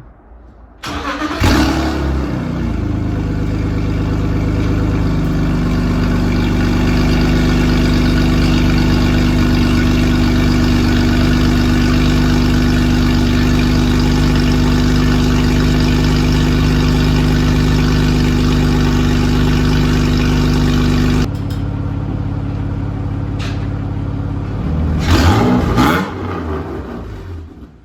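BMW engine in a Mazda MX-5 Miata drift car starting about a second in and idling loudly through an unfinished exhaust still missing its rear section. The idle steps down in level a little after two-thirds of the way through, then the engine is blipped with a couple of quick revs near the end before the sound drops away.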